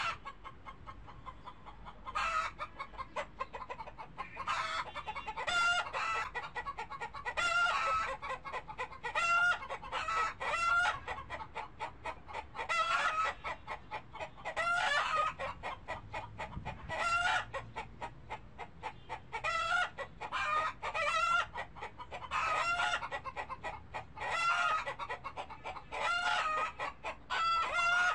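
Birds calling in bouts of rapid, short, pitched notes, one bout every second or two.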